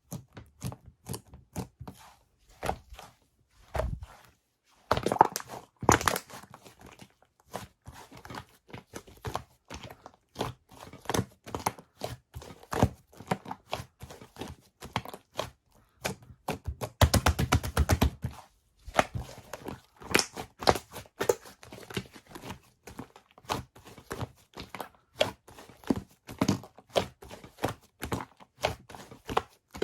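Slime being squeezed and worked by hand, giving a steady string of sharp popping and crackling clicks as air pockets burst. About seventeen seconds in there is a dense, fast run of pops lasting about a second.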